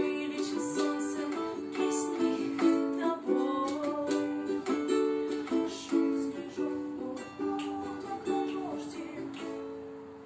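Instrumental passage on an acoustic plucked string instrument, strummed and picked in a steady rhythm, fading away over the last few seconds.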